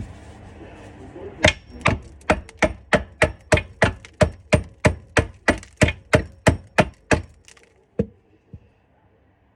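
Hammer blows on the rusted-up garbage disposal and its metal fittings, a rapid run of about twenty sharp, ringing strikes at roughly three a second, then two lighter knocks, as the seized unit is beaten to break it loose.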